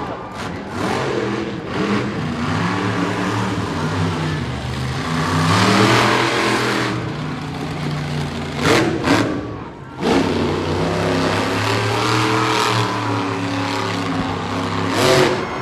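Monster truck engine revving up and down, its pitch rising and falling repeatedly, with a louder burst of throttle about halfway through and sharp loud bursts about nine seconds in and near the end.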